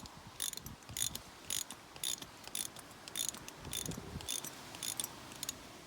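Ratchet wrench clicking in short bursts about twice a second as it is worked back and forth, tightening the bolt of a lashing eye into a drilled 10 mm hole.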